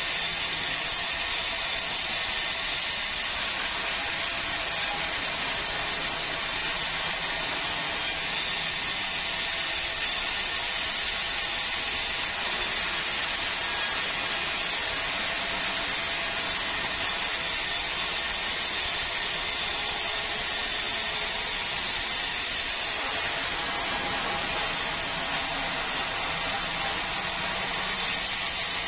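Sawmill saw running steadily as it cuts meranti wood: an even, loud hiss with a constant high thin whine over it.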